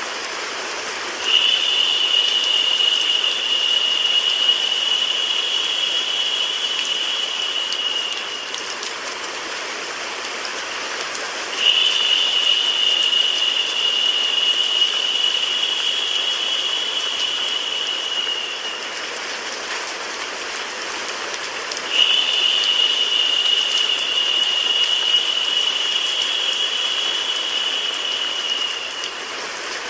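Steady rain-and-white-noise hiss, joined three times by a high, thin, steady tone that lasts about seven seconds each time and returns about every ten seconds.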